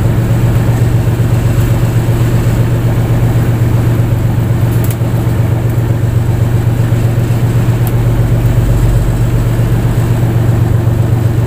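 Fishing boat's inboard engine running steadily at a constant speed, a loud, even hum with no change in pitch.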